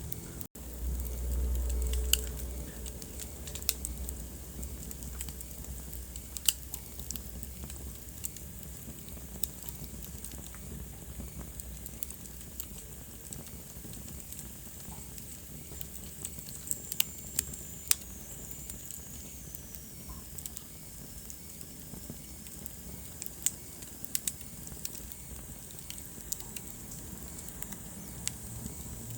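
Wood fire burning in a fireplace, crackling with many sharp irregular pops over a low steady rush. A short low rumble comes in the first couple of seconds, and a faint high whistle slides downward about two-thirds of the way through.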